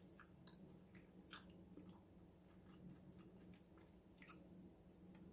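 Faint, wet chewing of a mouthful of shellfish with seafood dipping sauce, with a few soft mouth clicks over a low steady hum.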